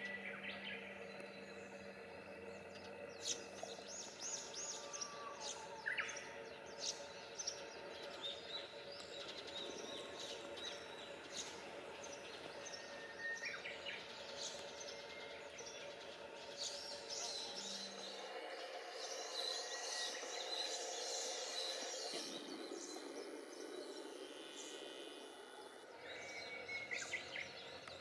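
Birds chirping and calling in short bursts over a faint, steady background of outdoor noise.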